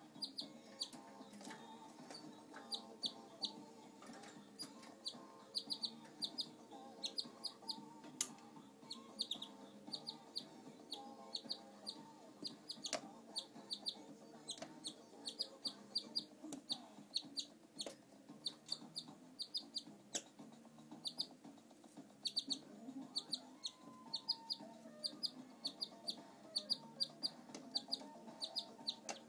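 Pet canary chirping: short, high call notes repeated over and over, often two or three in quick succession.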